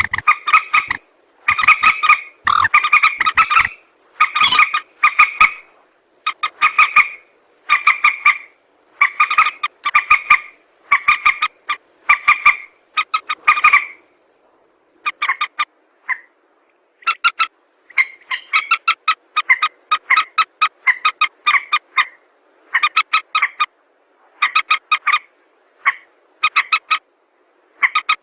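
Lure-call recording of a mandar (a rail of the swamphen and moorhen kind) calling: rapid bouts of short, pitched repeated notes, each bout lasting about half a second to a second, with brief pauses between them and a longer pause about halfway through.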